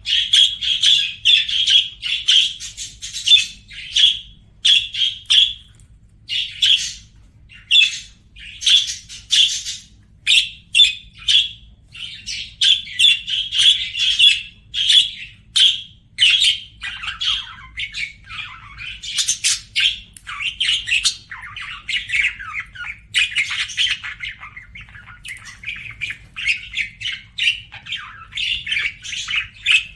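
Budgerigars chattering and warbling: a continuous run of rapid chirps and scratchy squawks with short pauses.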